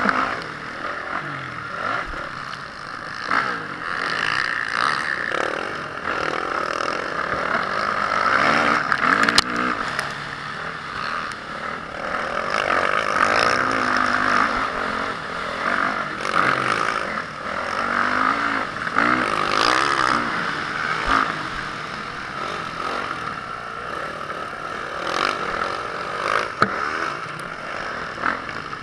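Motocross motorcycle engine revving up and down over and over as the bike is ridden around the track, with a few sharp knocks and clatter.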